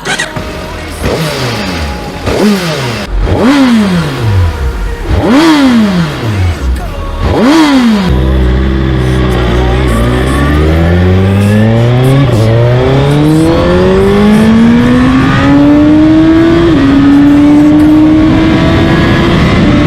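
2021 Suzuki Hayabusa's 1340 cc four-cylinder engine revved sharply about five times, each rev rising and falling quickly. The bike then pulls away, its engine note climbing steadily under acceleration, with one upshift near the end.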